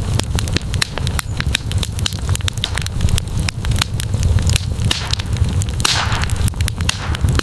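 Campfire crackling and popping, with many sharp snaps over a steady low rumble of the flames. A short hiss rises about six seconds in.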